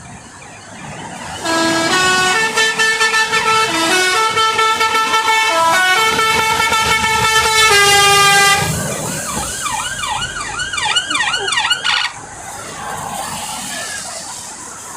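A vehicle's musical horn playing a tune of stepped notes for about seven seconds, then a quick warbling, siren-like yelp repeated about six times, over steady traffic noise.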